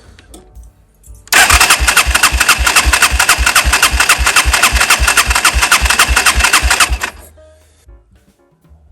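250cc single-cylinder quad bike engine cranked over by its electric starter for about six seconds with the throttle held wide open, not firing, for a compression test. The starter whine rises and falls in an even rhythm, about four pulses a second, as the piston comes up on each compression stroke.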